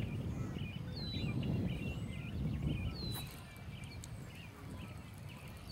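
Birds chirping around the river, with a short, high whistle that falls in pitch three times, about two seconds apart, over a low, uneven outdoor rumble.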